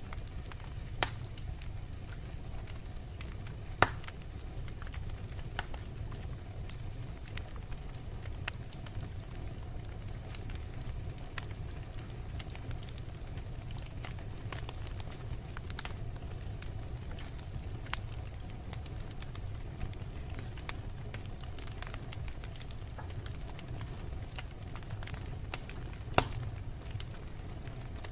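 Wood logs burning in a fireplace: a steady low rumble of the flames with scattered crackles, and three louder pops at about one second, four seconds and near the end.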